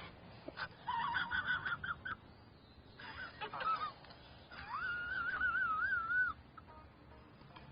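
An animal calling in pitched, wavering cries: two short bouts, then one long call whose pitch wobbles up and down.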